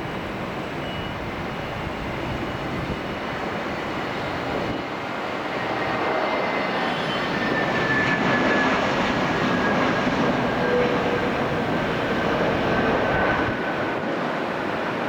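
Airbus A321neo jet engines during landing: a steady rush of engine noise that swells to its loudest about halfway through, with a faint high whine slowly falling in pitch.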